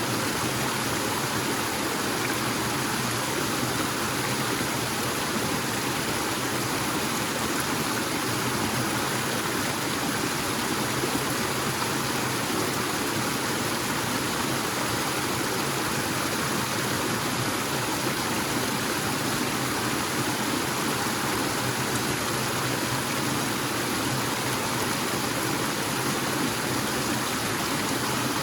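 Small forest waterfall and stream: a steady, unbroken rush of falling and running water.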